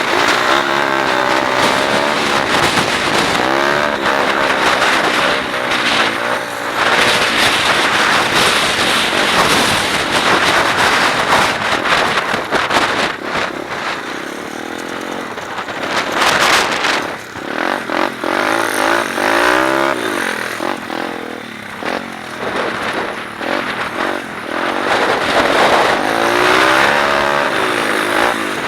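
125cc I-Moto pit bike's single-cylinder four-stroke engine revving up and dropping back over and over as it accelerates, shifts and slows around a motocross track.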